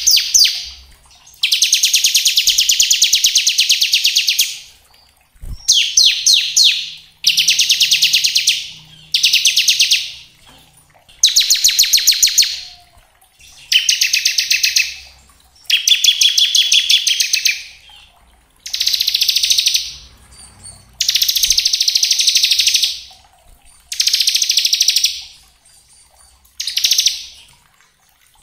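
Bar-winged prinia (ciblek) singing its 'ngebren' song: about eleven bursts of very fast, dense trilling, each one to three seconds long, separated by short pauses.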